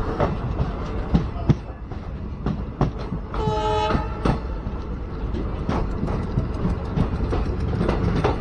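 Train running on the track with a steady low rumble and irregular wheel clicks. About three and a half seconds in, a short horn note sounds for under a second.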